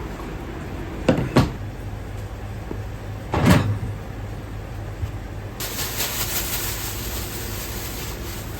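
Ramen shop kitchen work over a steady low hum: two quick knocks about a second in, a louder clunk a couple of seconds later, then a hiss that starts past the middle and keeps going.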